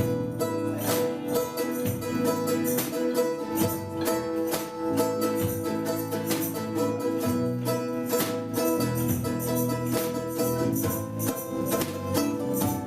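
Instrumental passage of a song: an acoustic guitar strumming chords in a steady rhythm.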